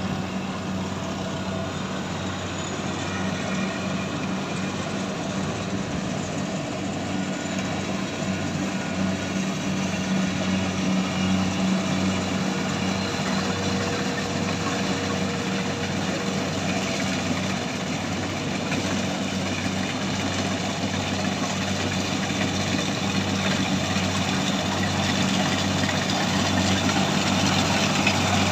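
Heavy farm machine's engine running steadily with a low, even hum, growing gradually louder toward the end.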